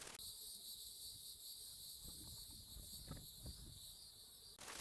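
Steady high-pitched chorus of insects, with a few soft low knocks of handling about two to three seconds in.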